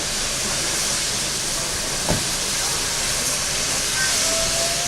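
Steady hiss of steam from a Victorian Railways R class steam locomotive, with a single sharp knock about two seconds in.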